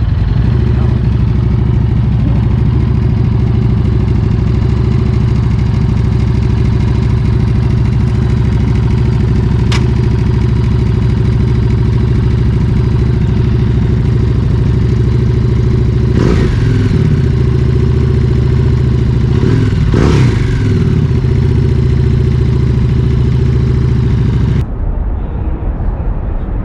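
Harley-Davidson V-twin motorcycle engine with a stage 1 upgrade and Screaming Eagle intake idling steadily, revved twice in quick blips about two-thirds of the way through.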